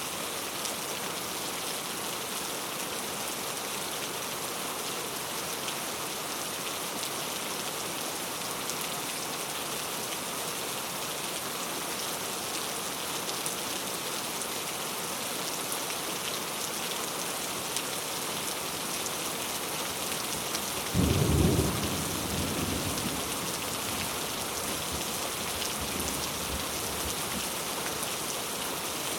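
Steady rain falling, with a single clap of thunder about two-thirds of the way through that rumbles off over a few seconds.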